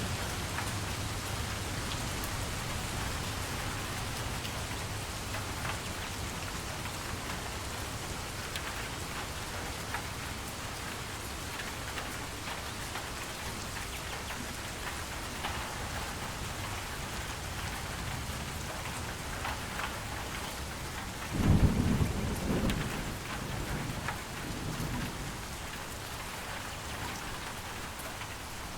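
Steady rain falling, with thunder: a low rumble dying away at the start, and a louder thunderclap about three-quarters of the way through that rumbles off over a few seconds.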